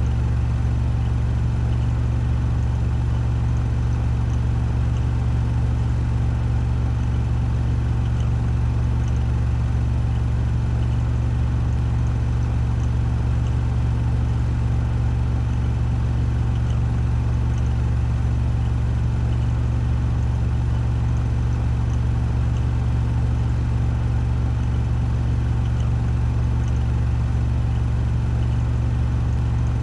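Washing machine in its 1400 rpm spin cycle: a steady, deep hum with a whir above it, level and unchanging.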